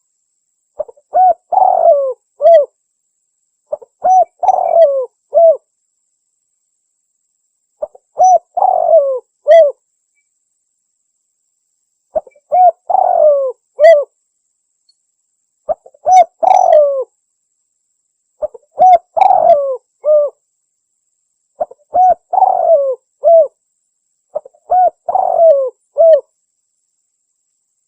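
Spotted dove (tekukur) calls played as a hunting lure: eight repeated cooing phrases a few seconds apart. Each phrase is a short run of coos around one longer, falling coo, with dead silence between phrases.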